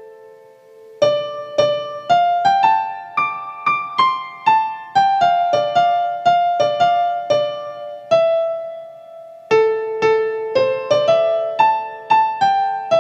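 Background music: a slow piano or electric piano melody of single notes, each struck and fading away, with a pause about a second in and a longer held note near the end.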